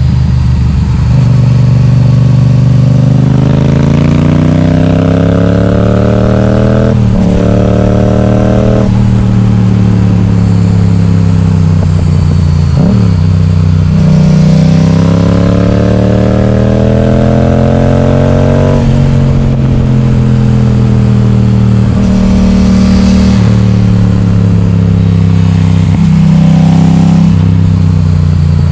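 Yamaha XSR700's 689 cc parallel-twin engine running loud through an Akrapovic exhaust with the baffle removed, pulling up through the revs. The revs climb and cut sharply at gear changes about seven and nine seconds in, fall away, jump briefly near thirteen seconds, climb again until about nineteen seconds, then settle and rise and fall more gently.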